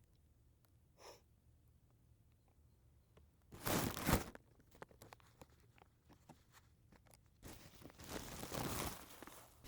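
Two bursts of rustling, crunching noise, the first about three and a half seconds in and a longer one near the end, with scattered clicks between.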